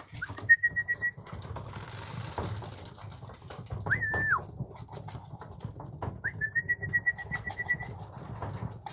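Three trilled whistles held at one high pitch, the middle one short and dropping at its end, calling racing pigeons in to the loft, over pigeons cooing and scattered wing claps.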